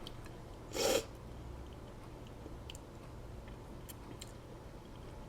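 A person eating a soft homemade black bean taco: one short loud noise about a second in, then quiet chewing with a few faint mouth clicks.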